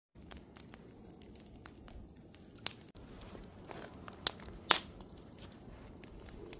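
Wood campfire burning: a low steady rush of flame with scattered crackles and a few sharp pops of the wood, the loudest three in the middle.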